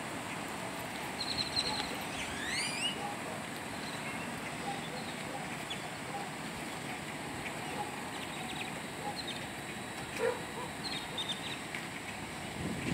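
Steady outdoor background hum with a few bird chirps: a pair of rising chirps about two to three seconds in and scattered short chirps later.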